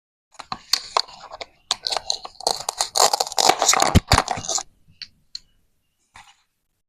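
Plastic toy vegetables being cut apart with a toy knife: a run of crackling, tearing clicks lasting about four seconds, then a few single clicks.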